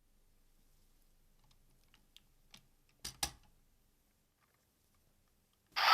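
Hard plastic toy parts clicking together: a few light clicks, then two sharp snaps about a quarter second apart around three seconds in, as pieces of a DX Seiku-Oh robot toy are fitted on.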